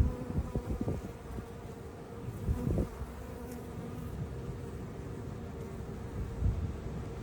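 Honeybees buzzing in a steady hum, with a few low thumps.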